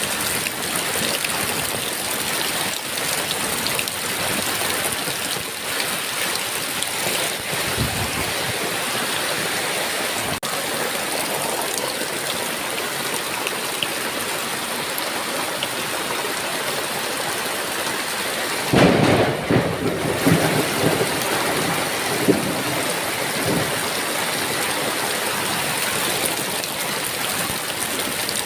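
Heavy rain falling steadily. About two-thirds of the way through, a clap of thunder breaks in and rumbles on in a few rolls for several seconds.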